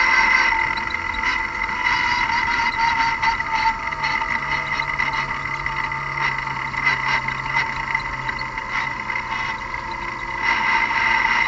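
Car engine idling with a steady high whine over it; the whine eases just after the start and grows stronger again near the end.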